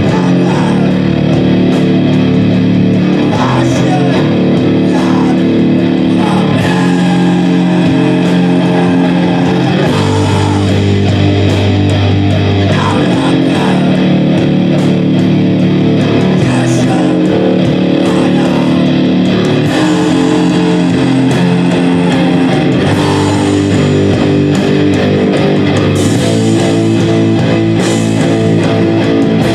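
Live band playing loud, guitar-heavy rock, with long held chords whose bass notes change every few seconds.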